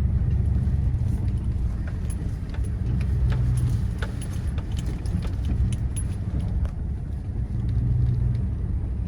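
Steady road and engine rumble inside a pickup truck's cab on a rough road, with loose parts and objects rattling and clicking throughout.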